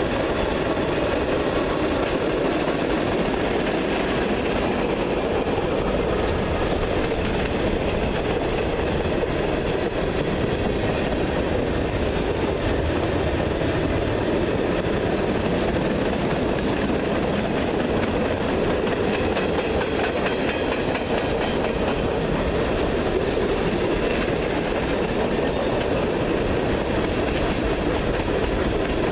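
A train rolling past on the rails with a steady, unbroken sound of its wheels and cars throughout.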